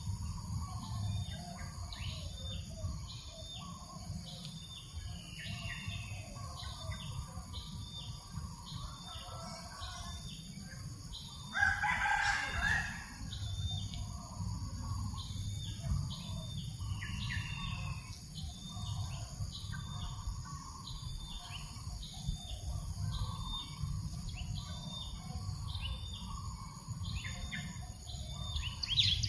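A rooster crows once, about twelve seconds in, the loudest sound here. Behind it, a small bird repeats a short high chirp in quick, even succession over a low, steady breeze rumble.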